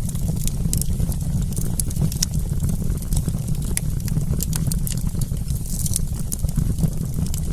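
Wood campfire burning: a steady low rumble with frequent sharp crackles and pops scattered irregularly throughout.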